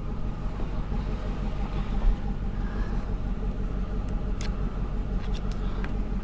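A vehicle engine running steadily with a low rumble. A few faint clicks come about four and five seconds in.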